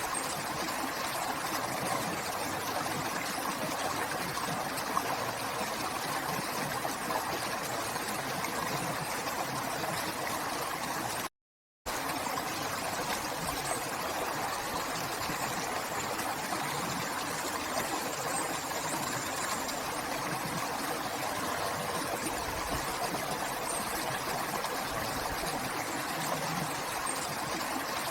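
River water flowing steadily. The sound drops out to silence for about half a second roughly eleven seconds in, then resumes unchanged.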